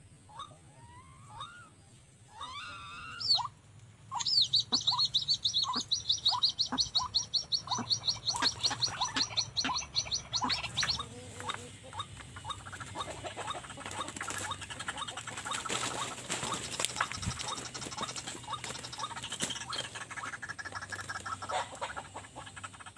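White-breasted waterhens calling: a few scattered notes, then a fast run of evenly repeated calls for about seven seconds, giving way to a denser jumble of overlapping calls and rustling.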